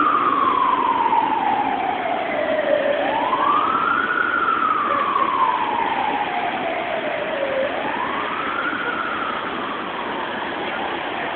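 Emergency vehicle siren wailing: the pitch climbs quickly, then falls slowly, in about two and a half slow cycles. It grows slightly fainter toward the end, over a steady hiss of background noise.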